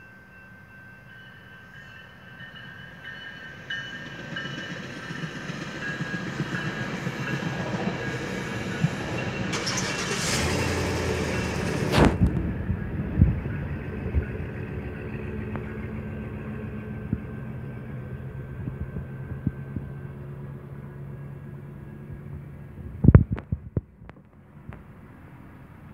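Northstar commuter train passing a level crossing, heard from inside a stopped car: its rumble builds as it approaches and is loudest about ten to twelve seconds in, then a steady low hum carries on as the cars go by and slowly fades. A few sharp clicks come near the end.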